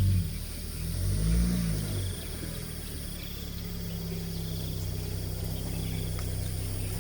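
Off-road vehicle's engine running at low speed, swelling twice with the throttle in the first two seconds, then settling into a steady low drone.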